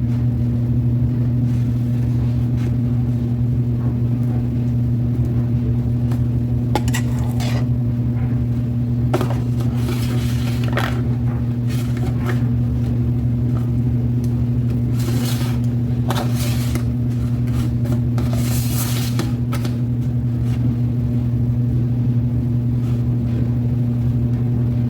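A steady low hum throughout, with a utensil scraping and clinking now and then as mayonnaise is spread on slider buns.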